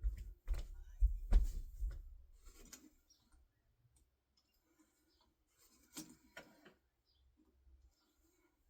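Handling noises: a run of knocks and rubbing with a deep thump in the first two seconds, then two sharp clicks about six seconds in, with no motor running.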